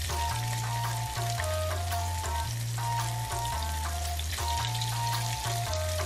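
Hand-torn tofu chunks sizzling and crackling in hot oil in a frying pan, over background music with a simple melody and bass line.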